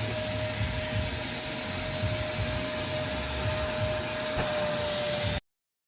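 Shop vacuum running steadily, a rushing hiss with a steady whine, sucking debris out of the intake area of an engine with its intake manifold off. It cuts off suddenly near the end.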